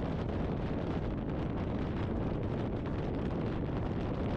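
Steady wind rush on a motorcycle rider's helmet intercom microphone while riding, an even noise with no distinct engine note.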